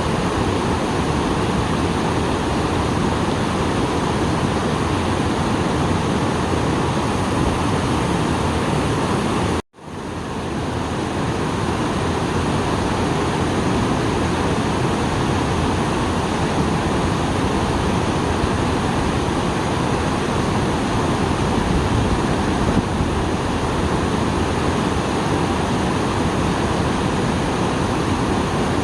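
Small waterfall swollen after rain, water rushing steadily. About ten seconds in, the sound cuts out abruptly and fades back up within a second.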